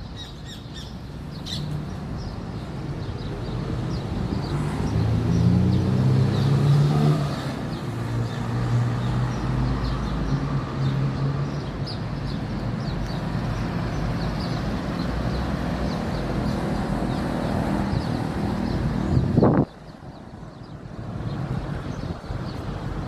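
A motor vehicle's engine running, growing louder about four seconds in and holding steady, with faint bird chirps over it; the engine sound rises sharply in pitch and cuts off suddenly near the end.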